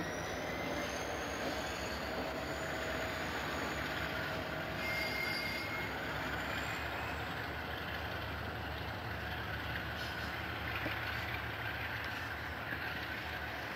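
Conrail double-stack intermodal train rolling past, a steady noise of wheels on rail, with a faint high wheel squeal about five seconds in.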